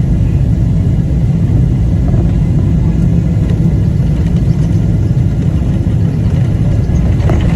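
Boeing 777-300ER airliner during its landing, a loud steady low rumble of engines and airframe, with a few faint clicks near the end.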